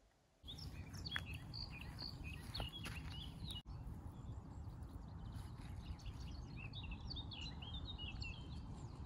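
Many small birds chirping and twittering in quick short calls over a steady low outdoor rumble, with a momentary break in the sound about three and a half seconds in.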